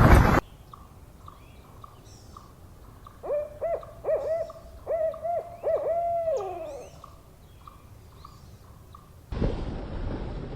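An owl hooting: a run of about eight short hoots over some three seconds, the last one longer and falling in pitch. Faint, evenly spaced higher toots sound about twice a second behind it. A rushing noise briefly fills the first half-second and cuts in again near the end.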